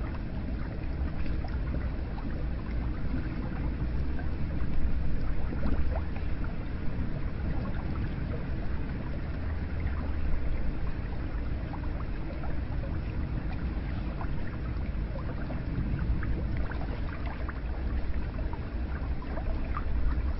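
Hot spring water flowing and splashing steadily, a continuous rush with many small splashes and drips.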